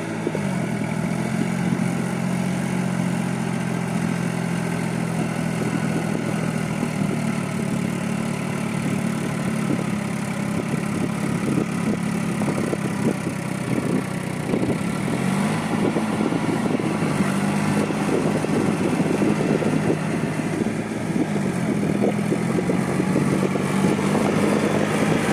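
New Holland 4710 tractor's diesel engine running, its pitch falling just after the start and dipping briefly twice in the second half as the revs change.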